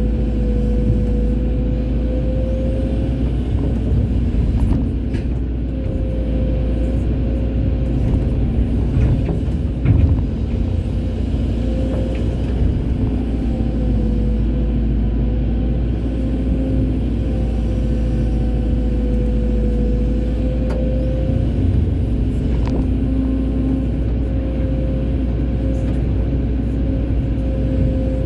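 Excavator's diesel engine and hydraulics running steadily under work, with a wavering whine over the engine note and a few knocks, the loudest about ten seconds in.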